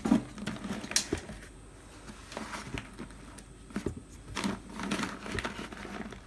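Handling noises as a dry filter bag is fitted inside a wet and dry vacuum's tank: scattered light clicks and knocks, with a busier cluster about four to five seconds in.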